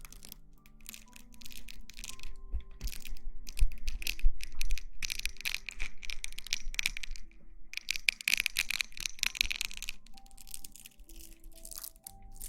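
Close-miked ASMR rustling and crackling, dense and fast, with a few soft low thumps about four seconds in, over soft background music with sustained notes.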